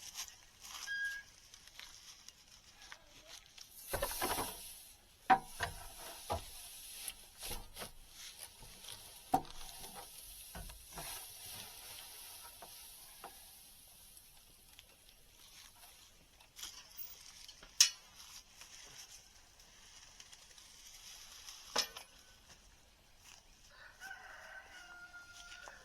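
Scattered sharp knocks and rustling, with a rooster crowing once near the end.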